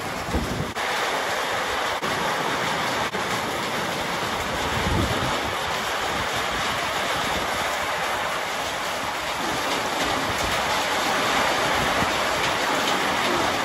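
Heavy rain pouring down on a concrete rooftop terrace: a steady, even hiss of rain.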